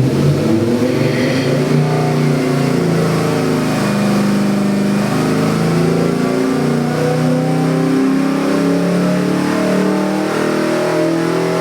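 Chevy 383 stroker V8 with multi-port fuel injection running on an engine dyno: it revs up from idle at the start and is then held at higher rpm, its pitch stepping up and down slightly.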